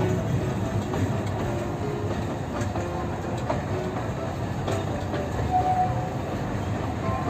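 Alishan Forest Railway carriage running along the track, heard from inside: a steady low rumble with light wheel clatter and occasional clicks.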